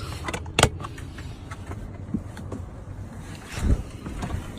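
A sharp plastic click as a plug-in tuning module is pulled from a car's OBD2 port. Faint handling noise follows, with a dull knock near the end.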